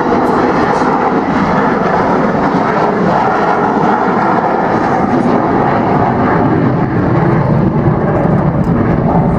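Avro Vulcan XH558's four Rolls-Royce Olympus turbojets as the delta-wing bomber flies past: a loud, steady jet rumble that grows slightly fuller in the low range near the end.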